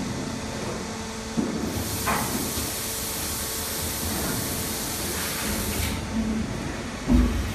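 Automatic flaskless green sand moulding machine at work, over a steady machine hum with two faint tones. A knock comes early on, then a long hiss of compressed air lasting about four seconds, then a heavy thud near the end.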